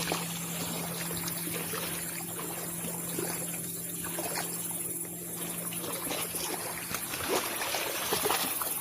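Small waves lapping and trickling on a lakeshore, with a steady high drone of insects.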